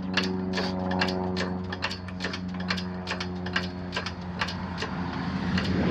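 Heavy-duty motorcycle lift rising: the safety-stop arms click over the locking blocks at about three clicks a second, over a steady mechanical hum.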